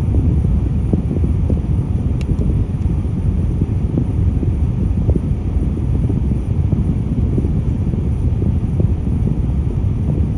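Steady low vehicle rumble, a diesel engine and road noise, with some wind buffeting on the microphone.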